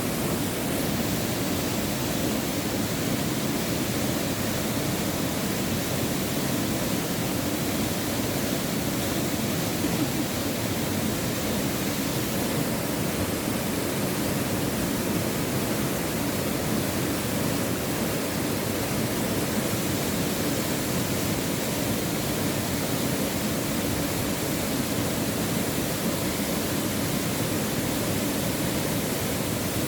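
Waterfall pouring steadily, an even rush of water with no breaks.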